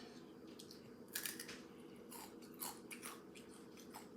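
Someone chewing Takis rolled tortilla chips: a string of short, irregular crunches.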